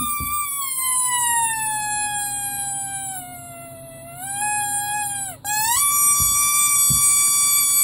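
Rubber squeaky toy squeezed, giving a long whistling squeal that slowly falls in pitch and fades over about five seconds. It breaks off, and a second, steady squeal starts, with two soft knocks near the end.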